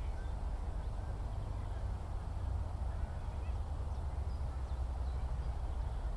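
Open-country ambience: a steady low rumble with faint, scattered short bird calls above it.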